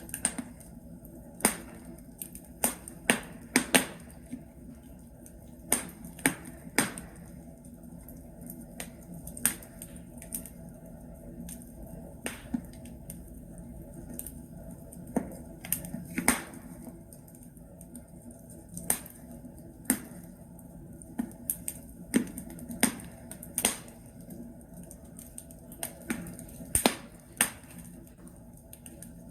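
Burning logs crackling in a fireplace: irregular sharp pops and snaps, some single and some in quick clusters of two or three, over a faint steady background.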